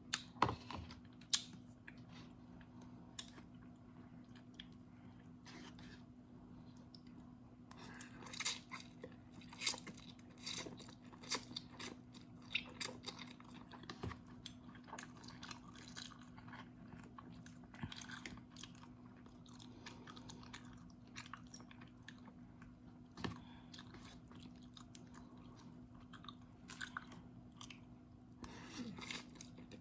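Close-miked mukbang chewing of instant noodles: irregular wet smacks, bites and crunches, thicker in the middle and again near the end, over a faint steady hum.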